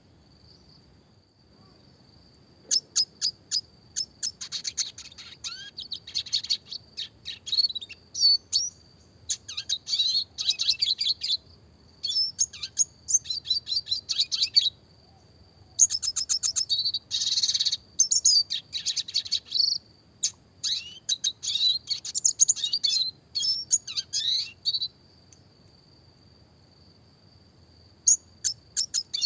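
Red siskin (Spinus cucullatus) singing in bursts of fast twittering, rolling trills and rapid clicking notes, broken by short pauses. The song starts about two seconds in and stops for a few seconds near the end.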